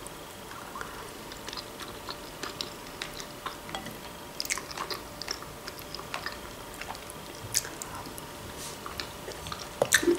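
Quiet close-up chewing of soft stuffed bell pepper, with many small wet mouth clicks. Just before the end come a few sharper clicks as a metal fork dips into the salad bowl.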